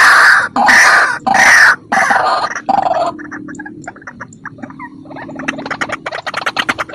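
White-breasted waterhen calls played as a lure: about five loud, harsh croaking cries in quick succession, then quieter rapid clicking notes that speed up into a fast chattering trill near the end.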